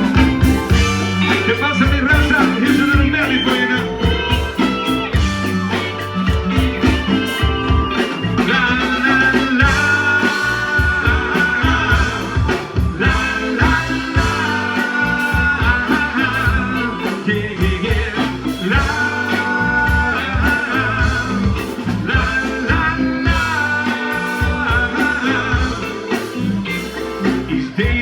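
Live band playing the opening of a soul medley through a concert PA: pulsing bass and drums, guitar, and long held melody notes over the top.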